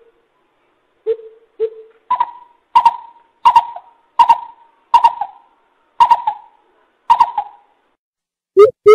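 Coucal giving a series of deep hooting calls: two low hoots, then about eight higher hoots roughly two-thirds of a second apart, each trailing off in a short echo.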